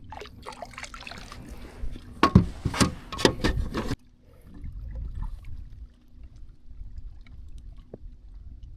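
Several sharp knocks and clatters on a kayak, bunched about two to three and a half seconds in, as a freshly caught bass is handled aboard. After that it goes quieter.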